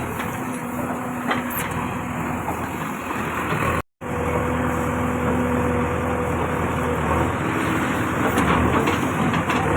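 Heavy diesel machinery engine running steadily, cutting out for a split second just under four seconds in.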